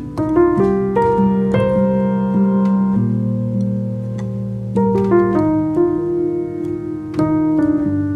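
Background piano music: soft chords and a slow melody, with new notes struck every second or so.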